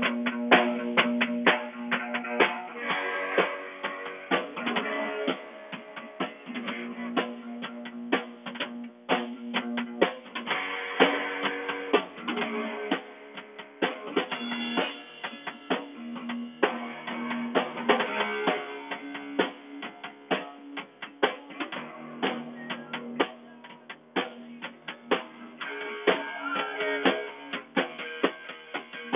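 A band playing a song on guitar and drum kit, with sustained guitar notes over a steady drum beat and no singing.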